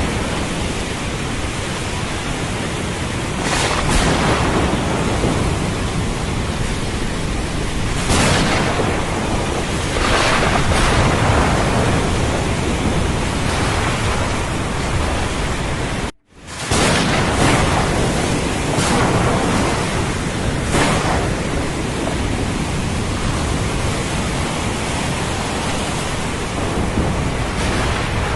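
Thunderstorm rain and ocean surf, a dense steady rush with low thunder rumble and several swells a few seconds apart. About halfway through it cuts out abruptly for a split second and comes straight back.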